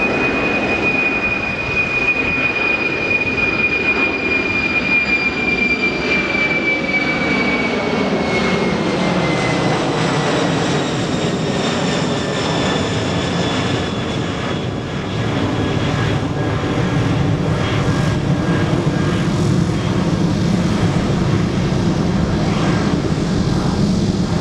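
Jet airliner passing close by: a high engine whine that falls in pitch from about six seconds in as the aircraft goes past, with a rumble that grows stronger in the second half.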